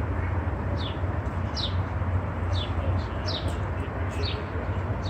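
A bird chirping over and over, short high notes that slide downward about once a second, over a steady low rumble.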